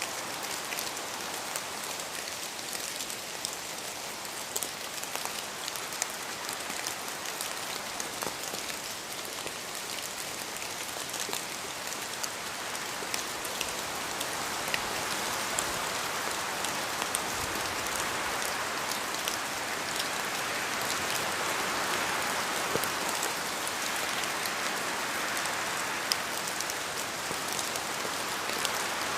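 Steady rain falling, with many individual drops ticking through the hiss, growing a little louder from about halfway through.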